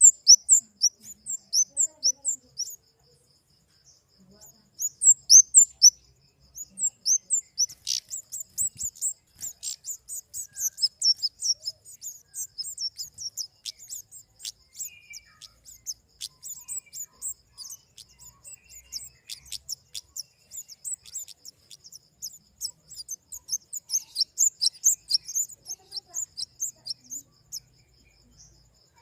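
Flowerpecker (kemade) calling: rapid series of thin, very high, short chirps, several a second, with a brief pause a few seconds in, over a faint steady high tone.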